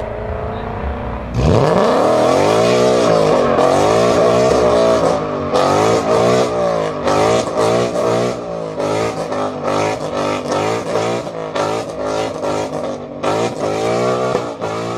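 A car engine revving: it comes in suddenly about a second and a half in with a rising sweep, then is blipped up and down over and over.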